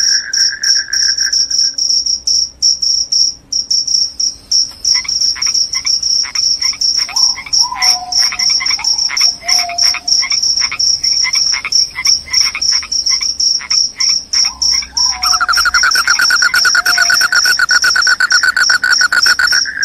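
Crickets chirping loudly in a dense, steady high-pitched trill. A second, lower-pitched pulsing call drops out about two seconds in and comes back near the end. In between, a run of lower, evenly spaced calls with short falling notes sits under the trill.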